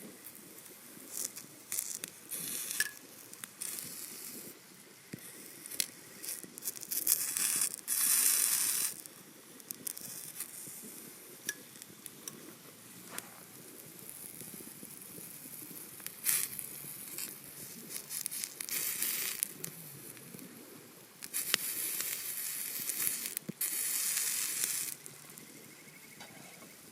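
Steak sizzling on a hot iron griddle plate over an open fire. The sizzle swells in several louder surges of a second or more, the longest lasting a few seconds about two-thirds of the way through, with scattered sharp crackles.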